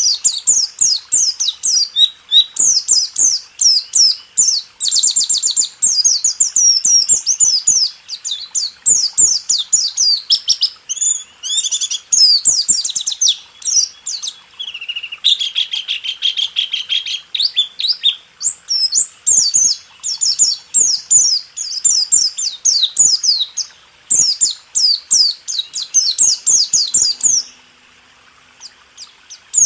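White-eye (pleci) singing a fast rolling 'tembak' song: long runs of quick, high chirping trills, with a lower, denser trill in the middle, stopping shortly before the end.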